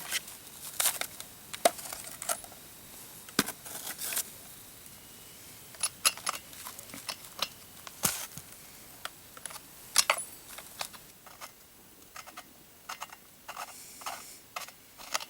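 Irregular metallic clicks, taps and scrapes of hand tools working on a chainsaw, as its spark plug is taken out, some clicks ringing briefly.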